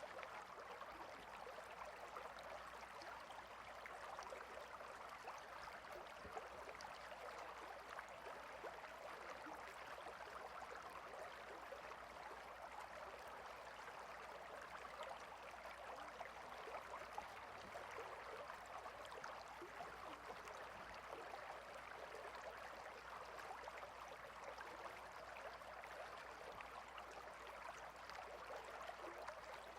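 Faint, steady flowing of a stream, an even rush of water without pauses or distinct splashes.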